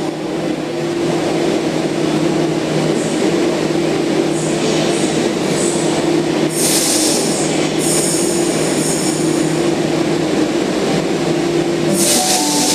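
Eight-car H-set (OSCAR) electric train pulling out of the platform, running with a steady hum and rumble. Its wheels give high-pitched squeals about six and a half seconds in and again near the end.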